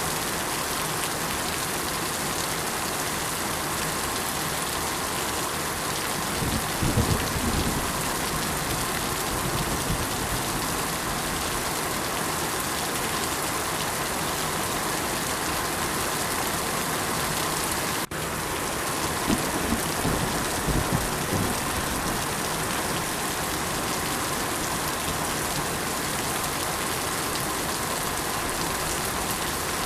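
Steady rain falling on surfaces, an even hiss of drops. Two brief low rumbles rise out of it, about 7 and about 20 seconds in, and the sound dips for an instant about 18 seconds in.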